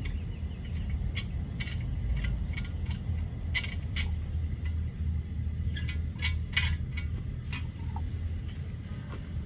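A motor running with a steady low hum, with scattered sharp metallic clicks and clinks over it.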